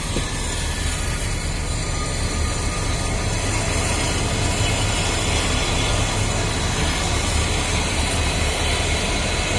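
Steady rumbling noise of a train, with a constant low hum underneath.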